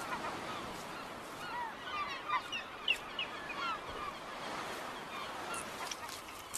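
Many short, overlapping bird calls, thickest between about two and four seconds in, over a faint steady hiss.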